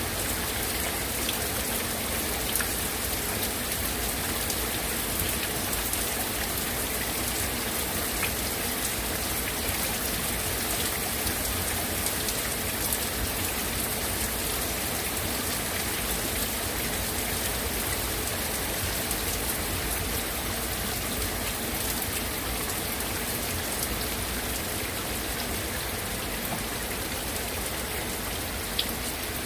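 Heavy rain falling and hitting surfaces: a steady hiss with many small sharp ticks of drops throughout.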